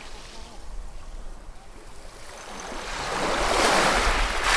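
Ocean waves on a shore. After a short lull, a wave builds from about two seconds in and breaks, loudest near the end as the surf washes in.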